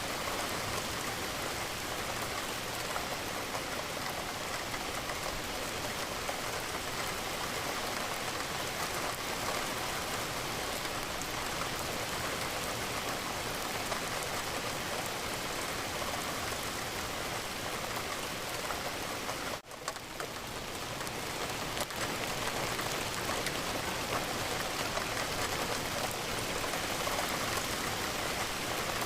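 Steady rain falling against a window. It drops out for an instant about two-thirds of the way through, then swells back.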